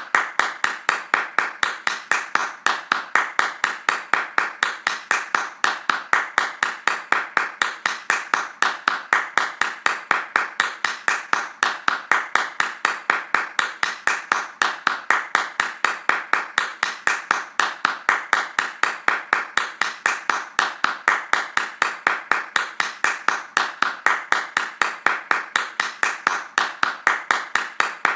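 Hands clapping fast in a steady, even rhythm, about four to five claps a second, without a break.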